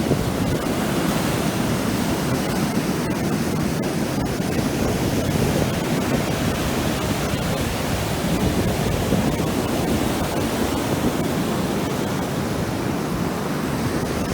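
Ocean surf: a steady, unbroken rush of waves breaking on the beach.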